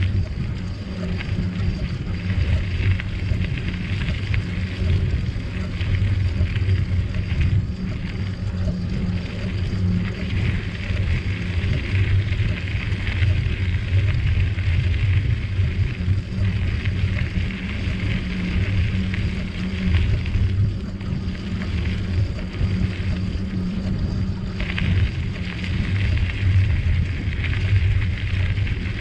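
Wind buffeting the microphone and bicycle tyres on a trail during a ride, a continuous low rumble, with a high hiss that fades in and out.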